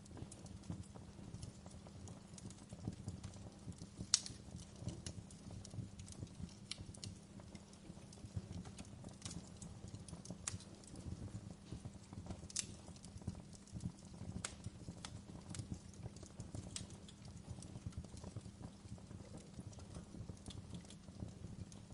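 Wood fire burning in a fireplace: irregular crackles and snaps of burning logs over a low, steady rumble of flame, with sharper pops about four seconds in and again near the middle.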